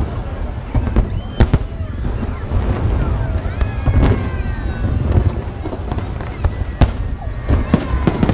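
Fireworks bursting: sharp bangs every second or two, several in quick succession near the end, over a steady low rumble.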